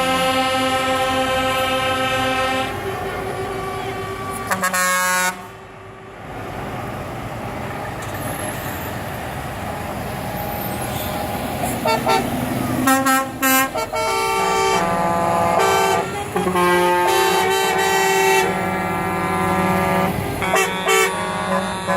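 Truck air horns blowing: a held chord of horns at first, a few short toots about five seconds in, choppy blasts a little past the middle, then long held horn tones with brief toots through the rest. Between the horns there is a steady rush of traffic.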